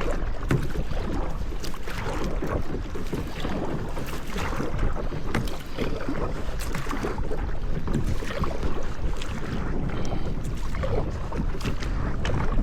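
Wind rumbling steadily on the microphone, with water splashing and lapping from kayak paddling.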